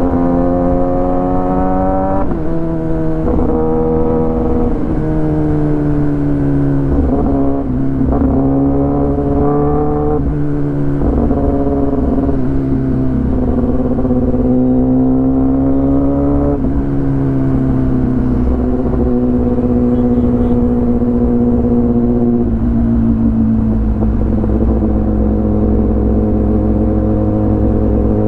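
Kawasaki ZX10R's inline-four engine through an Arrow full exhaust system, heard from the rider's helmet while riding. The engine note climbs and then drops sharply several times in the first half as it is shifted up through the gears. In the second half it settles to a steady, slowly falling note, with a low wind rumble underneath.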